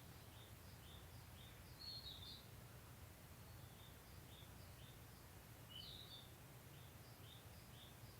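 Faint outdoor birdsong: a small bird chirps short high notes about twice a second, with two louder, fuller calls about two seconds in and near six seconds, over a steady low background rumble.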